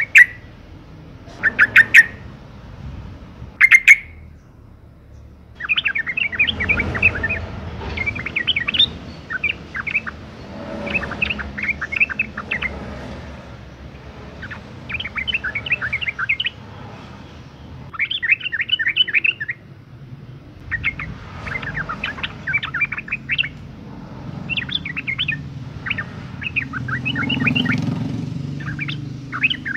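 Female yellow-vented bulbul (trucukan) calling in breeding condition: three loud, sharp calls at the start, then repeated phrases of rapid chattering notes, each a second or two long with short pauses between them.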